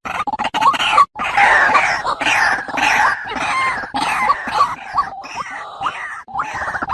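White-breasted waterhen (ruak-ruak) calling: a fast run of short, repeated notes, several a second, busiest through the middle.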